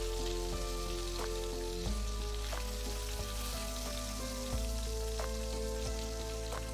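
Chicken breasts sizzling in hot oil in a frying pan, a steady crackling hiss, under background music with a strong bass line.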